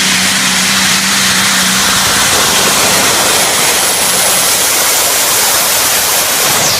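A pulling tractor's engine at full power during a pull: a loud, steady rushing noise with no clear engine note.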